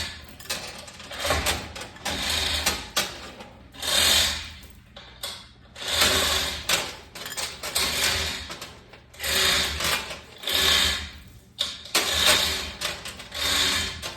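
Repeated bursts of rattling mechanical tool noise, about ten of them, each lasting under a second, with short gaps between.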